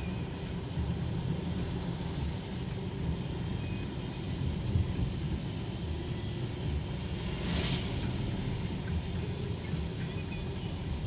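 Car driving, heard from inside: a steady low engine and road rumble, with a brief hiss about seven and a half seconds in.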